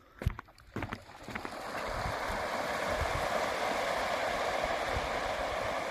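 A few footsteps, then steady rushing water swells up and holds.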